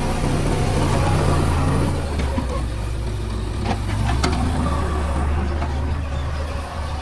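Diesel engine of a JCB backhoe loader running steadily under work, with two sharp metallic knocks a little past halfway.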